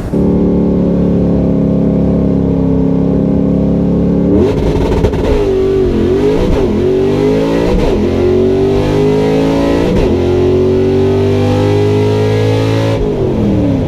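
Drag car's V8 engine held at steady revs on the line, then launching about four seconds in and revving up through several gear shifts, the pitch dropping at each shift, before lifting off near the end.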